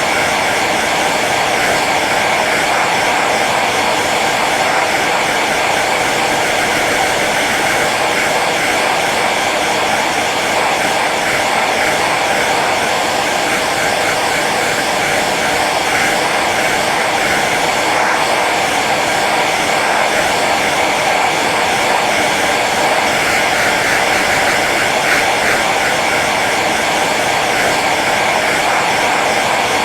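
Hair dryer running steadily on its low setting: an even, unchanging rush of blown air over the fan motor's faint hum.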